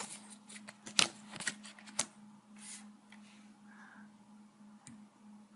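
Playing cards being dealt and laid down on a table: a few sharp taps and slides, strongest about one and two seconds in, then fainter handling. A steady low hum runs underneath.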